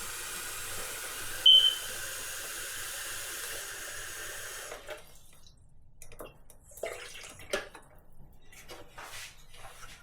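Kitchen tap running water into an espresso machine's removable water tank, filling it for a descale, with one sharp clink about a second and a half in. The water shuts off about five seconds in, followed by a few light knocks as the tank is handled.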